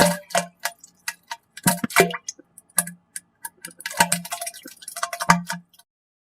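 Fart sound effect sputtering: a string of short, irregular pops and splats, some with a brief low buzz, dying out shortly before the end.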